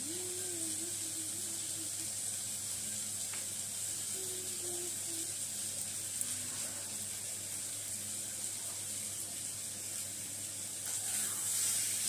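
Chicken sizzling in an oily masala in a kadai over a gas flame, a steady hiss as the last of the liquid cooks off. Near the end a spatula starts stirring it and the sound gets a little louder.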